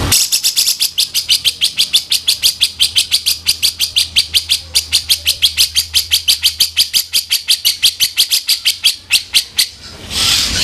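Cucak jenggot (grey-cheeked bulbul) giving its rough, harsh call: a fast, even run of high rasping notes, about seven a second, stopping just before the end. A short noisy rasp follows.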